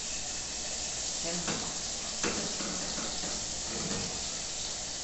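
Food frying in oil on a gas stove, a steady sizzle, with a few light knocks as a spatula stirs garlic in a saucepan.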